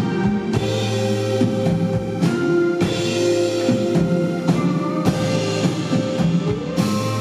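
Live band music without singing: a drum kit keeps time under a held bass note and sustained chords.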